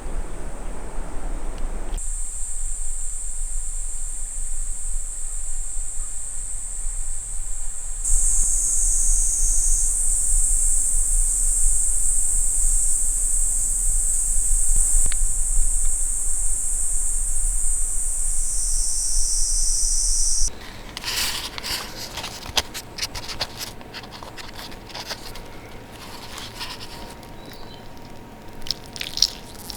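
Insects shrilling in a loud, steady, high-pitched drone that cuts off suddenly about two-thirds of the way through. After that come scattered clicks and rustling.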